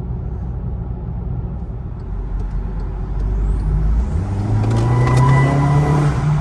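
VW Passat 1.8t turbocharged four-cylinder engine and exhaust, through a newly fitted Flowmaster FlowFX straight-through muffler, running under way and then accelerating, its pitch rising from about four seconds in. The note is a lot quieter, with no drone.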